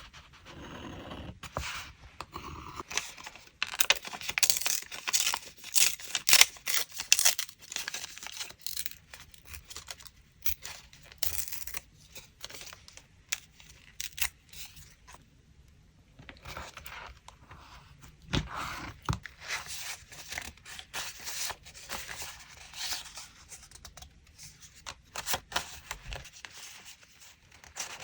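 Paper being torn and handled by hand for a collage: crisp, irregular rustling and tearing strokes with a couple of short pauses.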